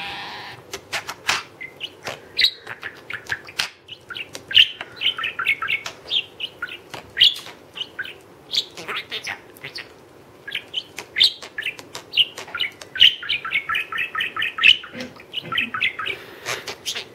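Small pet parrot making its beatbox-like sounds: a string of sharp clicks mixed with quick runs of high chirps.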